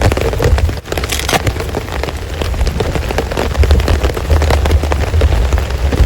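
Heavy rain falling, a dense patter of drops striking close by, over a steady low rumble from the thunderstorm.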